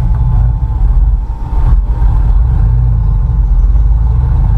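Suburban's engine running as it drives on snow and ice in two-wheel drive, a steady low drone with a brief easing about a second in.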